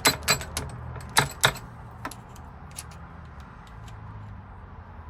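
Sharp metallic taps on the cap of a Ford F-150 ignition lock cylinder, knocking it off. Several hard strikes come in the first second and a half, then lighter, scattered taps.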